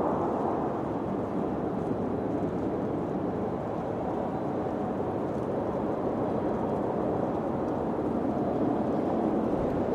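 Wind blowing steadily, a low rushing noise that swells a little near the end.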